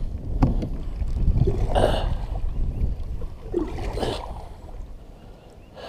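Kayak paddle strokes dipping and swishing through the water, a few strokes spaced a second or two apart, over wind buffeting the microphone that dies down toward the end.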